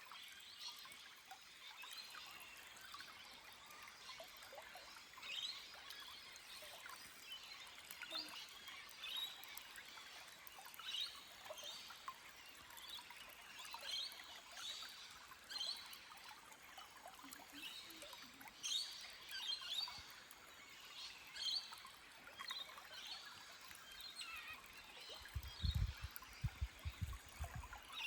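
Small forest stream trickling over rocks, with birds chirping throughout in short high calls. A brief low rumble comes near the end.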